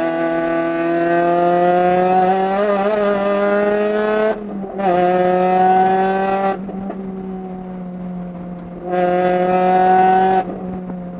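Racing MINI Cooper's four-cylinder engine heard from inside the caged cabin on track. The note climbs steadily under throttle, cuts out briefly about four seconds in, then pulls again. It drops back to a quieter off-throttle note past the middle, and comes back on full throttle for a short burst near the end.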